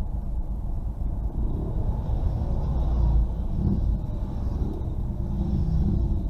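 Motorcycles passing one after another, their engine notes rising and falling as each goes by, over a steady low rumble of traffic.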